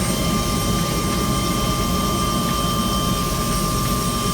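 Helicopter turbine and rotor noise: a steady din with a constant high whine over a low rumble.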